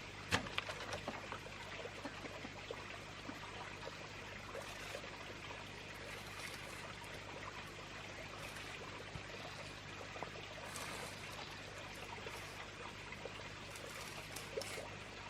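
Water trickling and pouring steadily, with a sharp click about a third of a second in and a few lighter clicks after it.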